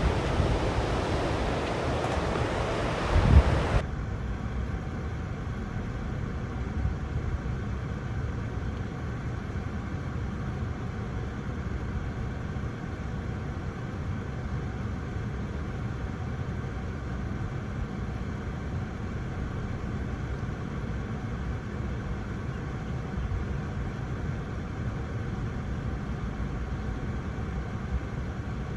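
Surf and wind noise on the microphone at the beach, with a gust thump about three seconds in. Shortly after, the sound drops suddenly to a steadier low rumble of wind and distant waves.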